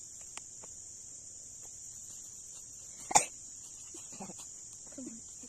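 Steady high-pitched chorus of crickets. A single short, loud sound breaks through about three seconds in, and faint voices follow near the end.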